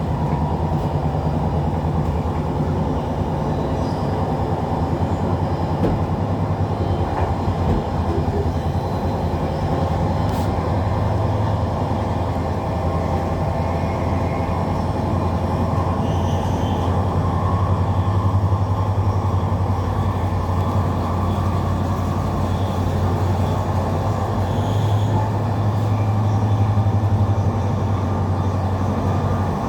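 Passenger train running along the line, heard from on board: a steady rumble of wheels on rail with a low drone that swells a little twice.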